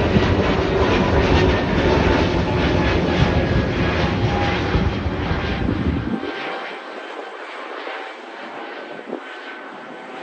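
Airbus A321neo's Pratt & Whitney PW1100G geared turbofans roaring at take-off power as the jet climbs out. About six seconds in, the deep rumble drops away abruptly, leaving a fainter, thinner jet noise.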